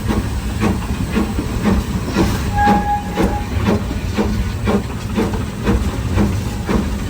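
1875 narrow-gauge steam locomotive running, heard from the cab: steady steam hiss and a low rumble, with exhaust chuffs about twice a second. A short, clear high tone sounds about three seconds in.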